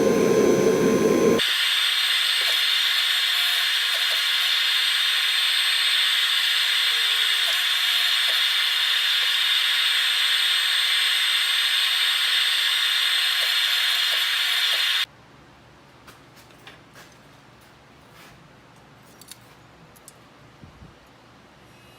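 A power tool running steadily with a high, hissing whine, which cuts off abruptly about two-thirds of the way in. After that come a few faint clicks and taps.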